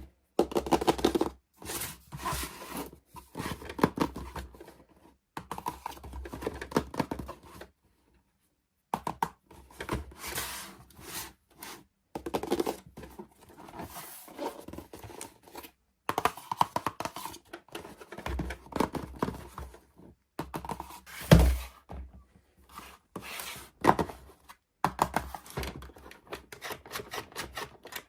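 Toy packaging being opened and handled: irregular tearing, scraping and rustling, with clicks throughout and one heavier thunk about two-thirds of the way through. There is a second of dead silence about eight seconds in.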